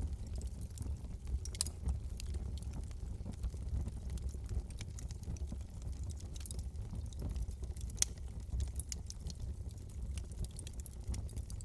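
Wood fire burning in a fireplace: a steady low rumble with constant crackling, with a few sharper pops, the loudest about eight seconds in.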